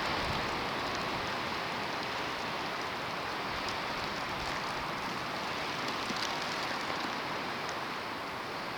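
Steady hiss of a snowstorm: wind-driven snow, with a few faint scattered ticks of flakes or ice striking nearby surfaces.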